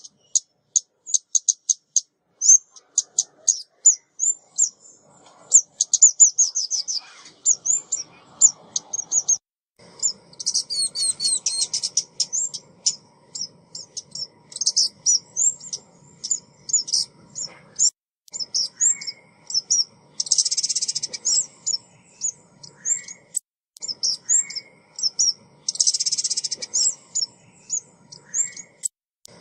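A small songbird, the bird called ốc mít in Vietnamese, giving rapid runs of short, high chirps, broken twice by a harsh buzzy rattle, once about two-thirds of the way through and again near the end. It is a female's call, recorded for use as a trapping lure.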